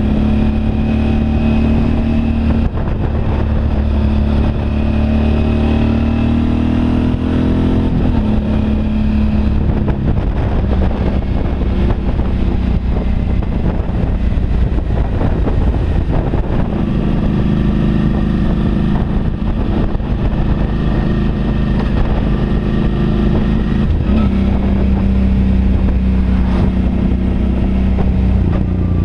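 Suzuki V-Strom DL650's 645 cc V-twin engine running under way in third gear. It climbs in pitch from about three to eight seconds in as the bike accelerates, then holds a steady pitch.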